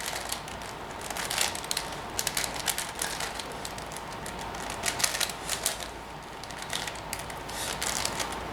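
Plastic 5x5 Rubik's cube being turned by hand: quick runs of clicking and clacking as the layers are twisted through an edge-pairing algorithm, in several bursts with short pauses between them.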